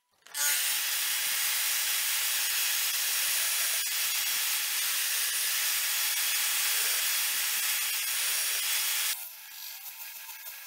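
A loud, steady hiss that starts abruptly and cuts off about nine seconds in.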